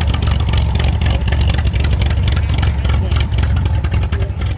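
An engine running loudly and steadily, beginning to fade near the end.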